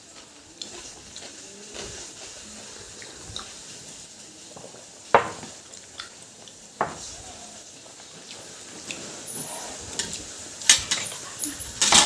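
Dishes and cutlery clinking and knocking during a meal: a couple of sharp knocks about five and seven seconds in, then a busier run of clicks near the end.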